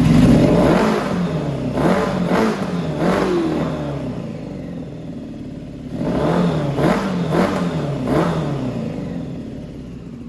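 600cc four-cylinder motorcycle engine of a home-built go-kart revved in repeated quick throttle blips, its pitch rising and dropping with each one. There is a run of blips, a short lull, then another run before it settles back toward idle near the end. The engine is running cleanly after its carburettors were just adjusted.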